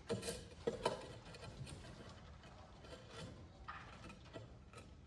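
A few faint knocks in the first second, then faint scraping and rubbing: hands at work marking out and handling bricks for the masonry.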